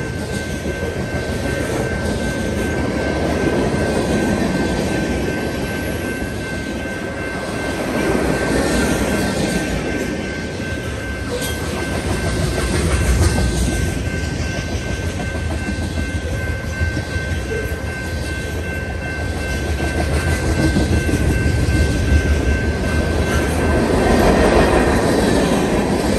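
Freight cars (hoppers, tank cars and boxcars) rolling past at speed, a steady rumble with wheel clatter over the rail joints that swells and eases every few seconds as the cars go by, with a thin steady high tone running through it.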